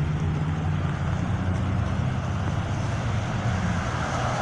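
Road traffic on a rain-wet road: a steady low engine hum and tyre hiss, swelling slightly near the end as a vehicle comes closer.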